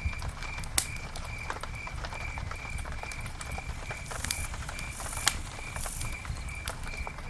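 Wood campfire crackling, with irregular sharp pops over a low rumble, the loudest about a second in and again about five seconds in. A steady high chirp repeats about three times a second in the background.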